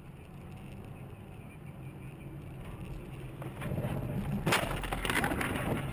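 Car road and engine rumble building up, then about four seconds in a loud crunching, scraping noise that lasts over a second: a road collision.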